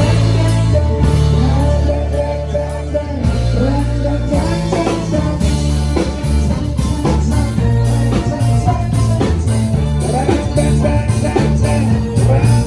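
Dangdut koplo band music with drum kit, bass and a melodic lead playing a song's instrumental intro to a steady beat, before the vocals come in.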